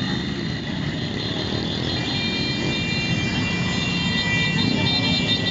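Engines of a large motorcycle caravan running together. A steady high-pitched tone is held over them from about two seconds in.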